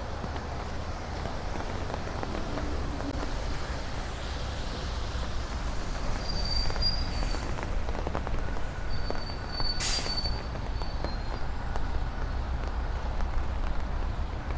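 Distant thunder rumbling low under a steady hiss of rain. Two short high squeals come through, about six seconds and about ten seconds in, and a sharp click falls about ten seconds in.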